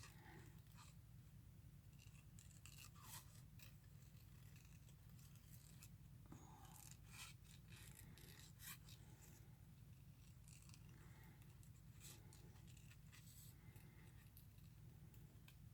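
Small craft scissors snipping paper in faint, irregular cuts, the slow close-trimming of fussy cutting, over a low steady hum.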